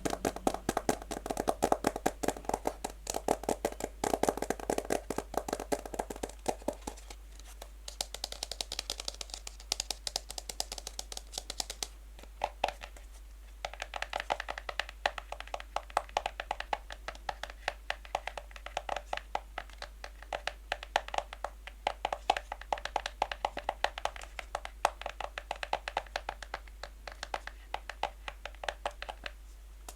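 Natural fingernails tapping quickly and lightly on a box in fast, dense runs of clicks. The tone of the taps changes about a quarter of the way in, and there is a brief lull a little before the middle.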